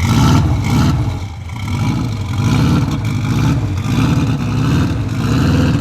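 Subaru EJ205 flat-four boxer engine of a Saker RapX race car running and being revved, rising and falling in several swells.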